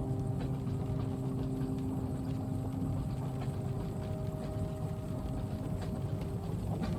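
Train carriage ambience: the steady low rumble of a moving train, with a few steady hum tones over it and faint scattered clicks.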